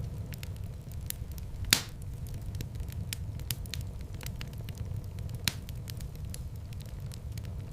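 Wood fire burning in a fireplace: a steady low rumble of flames with constant small crackles, and two louder pops about two seconds in and again about five and a half seconds in.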